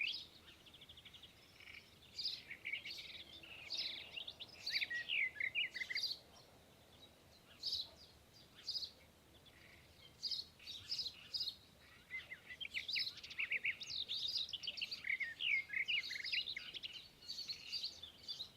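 Small songbirds chirping and singing in quick runs of high notes, with a thinner stretch of only a few chirps partway through.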